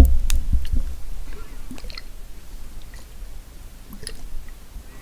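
Close-miked ASMR trigger sounds: a loud low bump right at the start, then scattered small clicks and crackles that thin out over the next couple of seconds.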